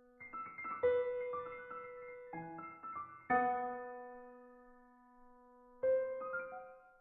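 Slow solo piano music: clusters of struck notes and chords, each left to ring and fade. Fresh chords come about one second in, just past three seconds, and near six seconds.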